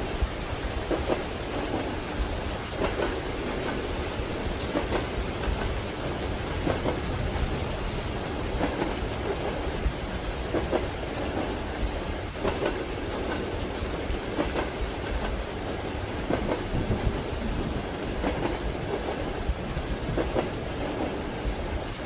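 Steady rain with a low rumble, over the clack of train wheels on rail joints coming round about every two seconds.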